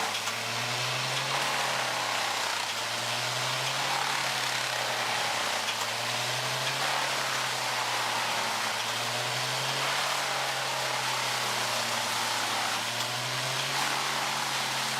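Wood chipper running steadily, its engine and machinery giving a continuous noise with a low hum that rises and falls slowly every few seconds.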